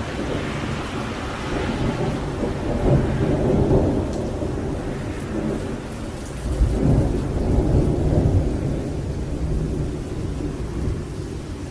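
Thunder rumbling on and off over steady rain, with two long swells of deep rolling rumble, the second about halfway through, then easing off.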